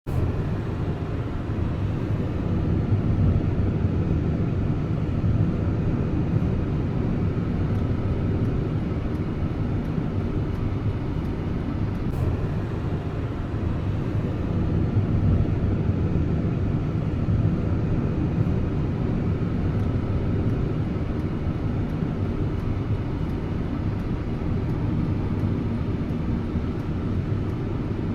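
A steady low rumble with no distinct events, of the kind made by a moving vehicle.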